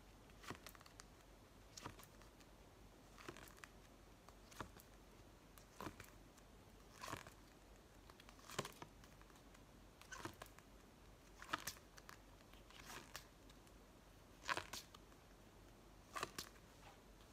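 Quiet handling of cards or paper: a short crisp rustle or flick about every second and a half, as speed-sound flashcards are turned one after another.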